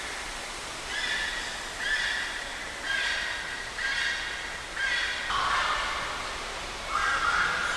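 A bird in an aviary giving a run of short squawking calls, each about half a second long, roughly once a second, the last two lower in pitch.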